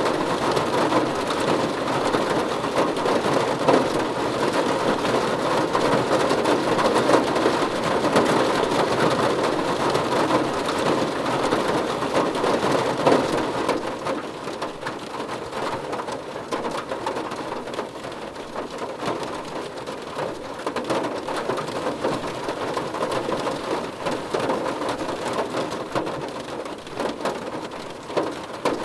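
Steady rain falling on a surface, a dense patter of drops that eases somewhat about halfway through.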